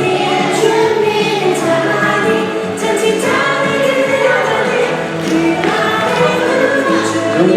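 Children's Christian praise song: a group of voices singing together over backing music.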